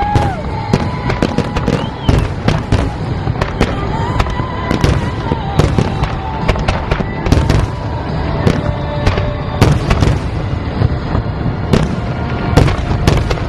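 Aerial fireworks bursting: a dense, continuous run of loud bangs and crackles, several a second.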